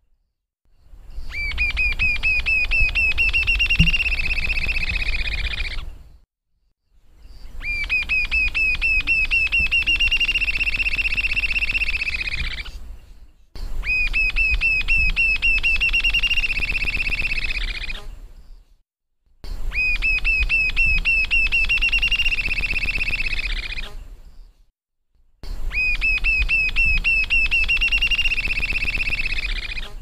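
A bird singing a fast trill of repeated notes, with a slight upward slide at the start of each phrase, then holding a steady pitch. The phrase repeats five times, each lasting about five seconds and followed by a short pause.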